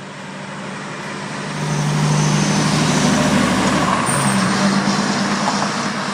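Diesel engine of a Spartan Crimson fire engine pulling away and driving past, its steady drone growing louder about a second and a half in, then easing off.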